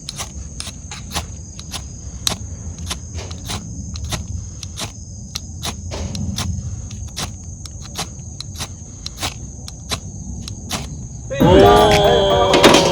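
Wood fire crackling in a small fire pit as the kindling catches, with irregular sharp snaps over a low rumble and a steady high chirring of insects behind it. Near the end, louder music comes in.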